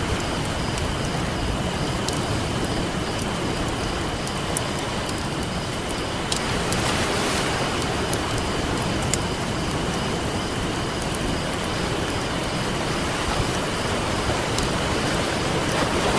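Campfire crackling with scattered sharp pops over a steady wash of ocean waves, one wave swelling up about six seconds in.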